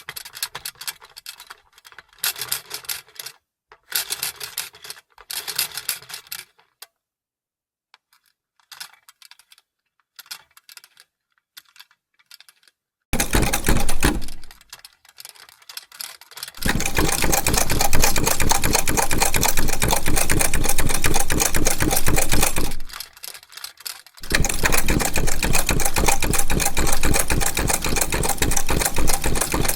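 Vintage sewing machine: clicking and handling noises for the first dozen seconds, then the machine stitching at speed in a rapid, even rhythm, a short run about halfway through, a longer run of several seconds, a brief stop, and another run near the end.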